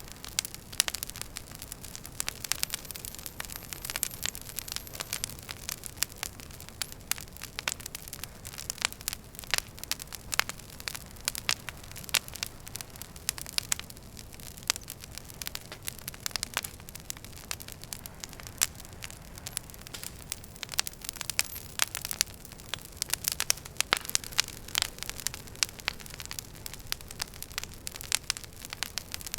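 Wood fire burning in a fireplace, with dense, irregular sharp crackles and pops over a steady low hiss.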